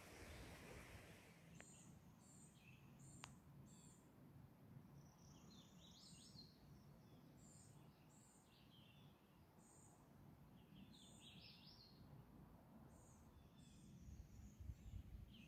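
Faint songbird calls: short high chirps repeated about once a second, with a few lower warbled phrases between them.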